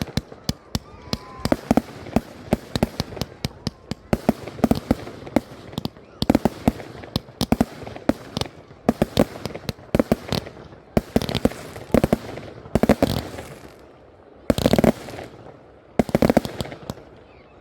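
Fireworks going off: a rapid, irregular run of sharp bangs and crackles, with several louder, longer bursts in the second half.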